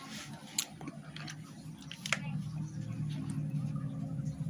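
Scattered light clicks and taps of tools and small metal parts being handled during motorcycle engine work, over a steady low hum.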